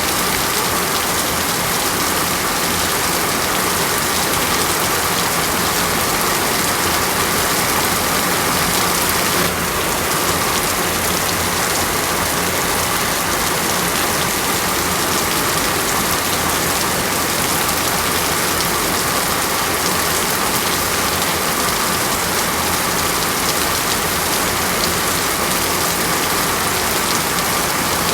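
Steady rain falling on a surface, an even continuous hiss with a slight drop in level about a third of the way in.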